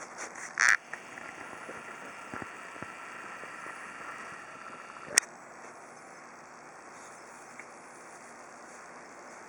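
Outdoor background of steady hiss with a faint high steady tone, broken by one short loud sound just under a second in and a sharp click about five seconds in.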